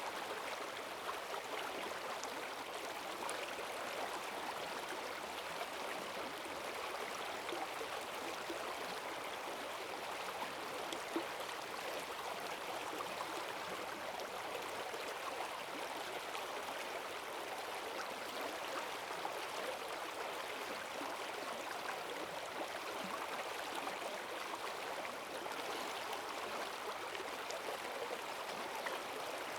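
Forest stream running fast and full after heavy rain, a steady rush of water with small splashes and gurgles.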